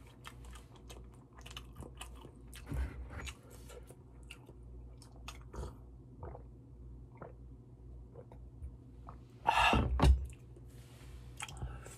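A person chewing malatang: small wet mouth clicks and smacks throughout, with one louder noisy sound lasting under a second about nine and a half seconds in.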